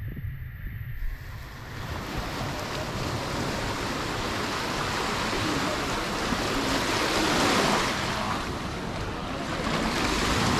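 Sea waves breaking and washing up the beach, the hiss of the surf coming in after about a second and swelling twice, with wind rumbling on the microphone underneath.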